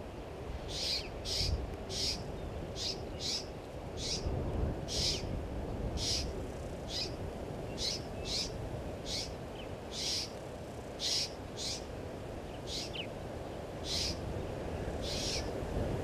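A bird giving short, sharp calls over and over, one or two a second at uneven spacing, over a low steady rumble.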